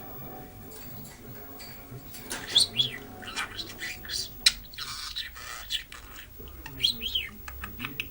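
Pet talking bird calling in quick chirps and squawks with whistled notes that swoop up and down, starting about two seconds in, with a second short burst near the end.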